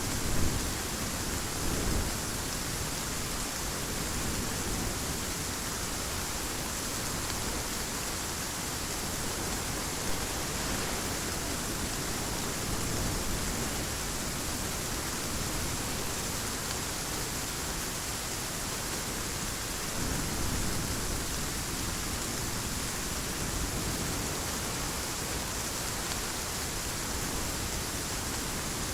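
Heavy rain falling in a steady hiss, with a few low rumbles of thunder swelling briefly, near the start and again about twenty seconds in.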